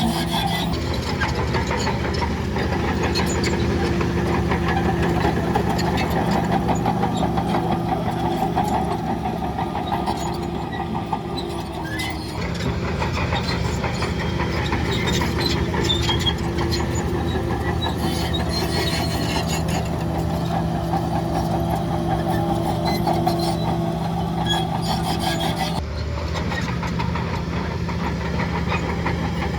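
Diesel engine of heavy earth-moving machinery running steadily, with rattling clicks throughout. The engine note changes about twelve seconds in and again near the end.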